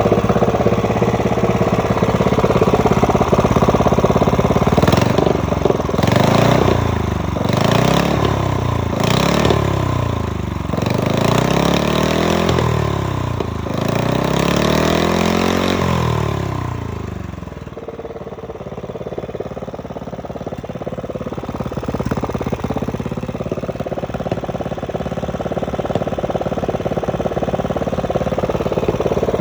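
GB460 gasoline engine with a 92 mm bore, revved up and down repeatedly in quick blips, then dropping back to a steady idle about two-thirds of the way in.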